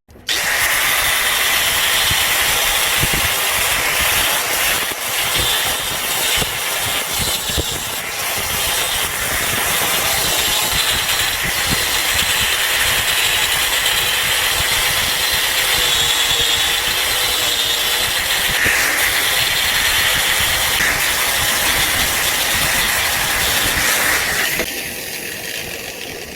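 A machine running steadily and loudly, with a hissing, crackling noise strongest in the upper range; it starts abruptly and falls away about twenty-four seconds in.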